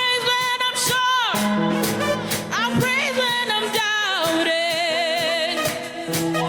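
Live gospel praise singing with band accompaniment: a solo voice sings gliding, ornamented runs, then holds a long note with vibrato about four to five and a half seconds in.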